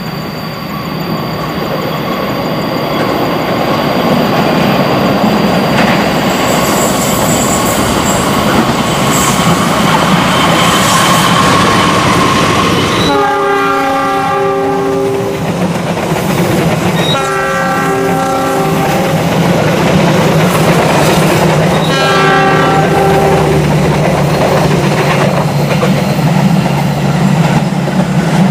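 A diesel-hauled passenger train passes: the locomotive engine's low hum under the steady rumble and clatter of the coaches on the rails, growing louder over the first few seconds. About halfway through, the locomotive's air horn sounds three chords, each about two seconds long, the last one shorter.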